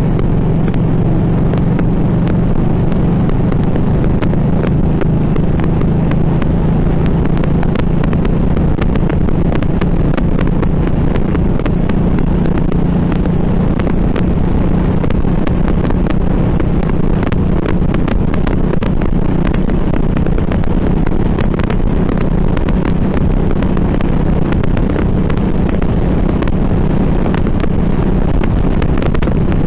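Harley-Davidson Nightster's V-twin engine running at a steady cruise, with wind buffeting the handlebar-mounted camera's microphone.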